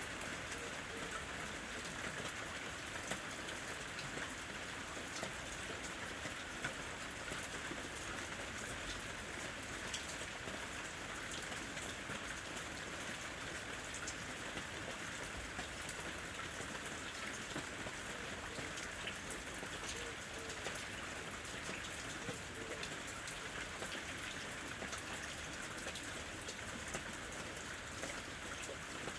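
Steady rain falling on a house roof: an even hiss with many small scattered drop ticks.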